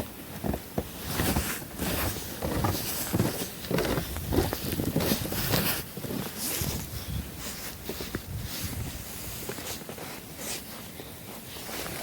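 Footsteps crunching through snow, an irregular run of steps.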